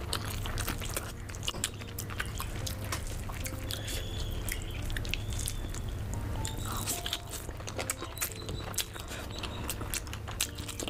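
Close-miked eating sounds: a person chewing spicy saucy noodles and chicken eaten by hand, with wet mouth smacks and many quick crisp clicks.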